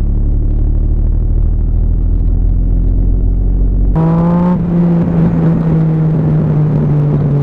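Motorcycle engine running through an aftermarket exhaust: a steady low rumble, which about four seconds in switches abruptly to a higher, brighter engine note that climbs briefly and then holds steady.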